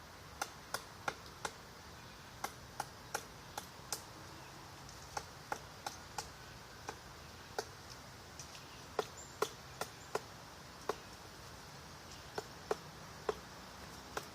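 Woodpecker pecking at wood: single sharp knocks at an uneven pace, roughly two a second, with short pauses between runs, not the fast roll of drumming.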